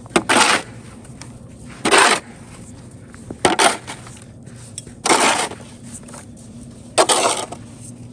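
A series of short, harsh scraping or rushing bursts, about one every one and a half to two seconds, over a faint steady hum.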